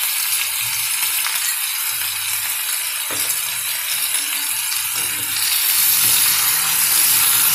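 Cubed pumpkin frying in hot oil in a steel kadhai, a steady sizzling hiss that gets a little louder in the last couple of seconds.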